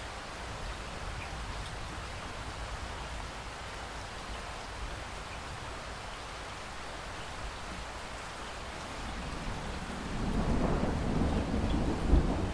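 Steady rain, joined near the end by a low rolling rumble of thunder that swells and peaks with a sharper crack just before the end.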